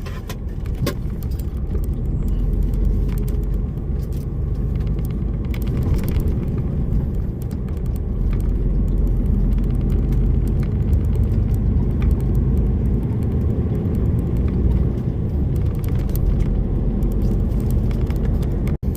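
DAF lorry driving on the road, heard from inside the cab: a steady low rumble of engine and road noise, with faint scattered clicks and a brief dropout near the end.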